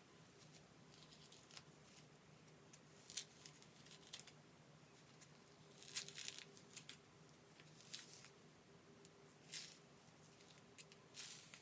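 Faint, scattered squishy crackles of hands working styling product into wet curly hair, with a low steady hum underneath.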